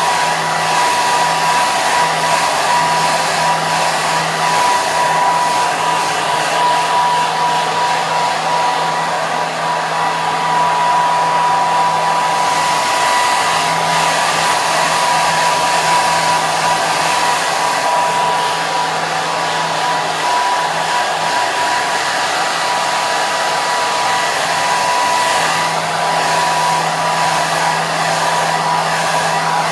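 Handheld hair dryer running steadily: an even rush of blown air with a constant high whine from its motor and a low hum underneath.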